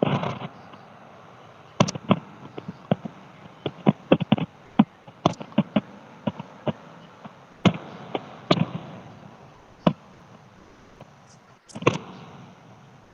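Consumer fireworks going off: a run of sharp, irregular cracks and pops, a few louder bangs trailing off briefly.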